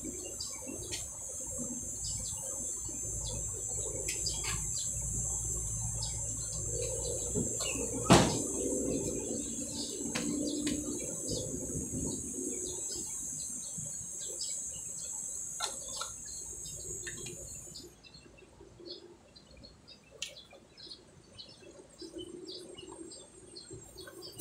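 Small birds chirping over a steady high-pitched whine and a low hum, both of which fade out about three-quarters of the way through. A single sharp click about eight seconds in.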